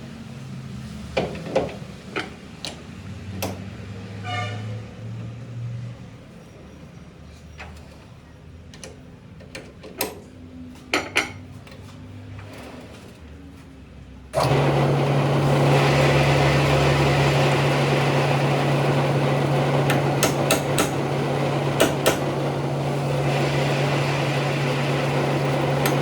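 Scattered sharp metal clinks and knocks from tools and parts being handled. About halfway through, a workshop machine starts abruptly and keeps running with a loud steady hum and hiss, with more metal clinks over it.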